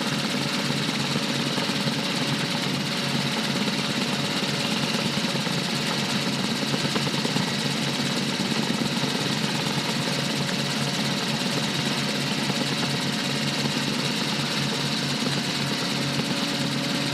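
Rotorway 162F helicopter running steadily, its engine and rotor holding a constant pitch and level throughout.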